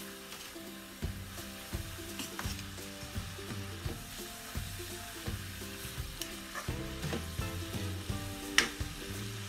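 Shredded cabbage sizzling as it is stir-fried in a wok, with a wooden spatula scraping and knocking against the pan, and one sharp knock near the end.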